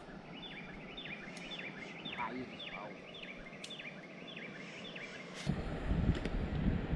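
A bird calling over and over, about two calls a second, each a quick downward-then-upward sweep. About five and a half seconds in, the calls give way to a louder, low rumbling noise.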